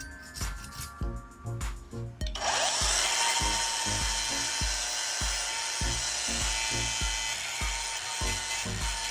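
Hand scraping or filing strokes on wood, then about two and a half seconds in a power tool starts and runs steadily on the wood, over background music with a steady beat.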